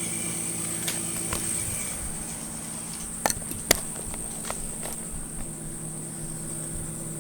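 Battery-powered TOMY toy train's small electric motor whirring steadily, with a few sharp clicks scattered through, the loudest two about three and a half seconds in.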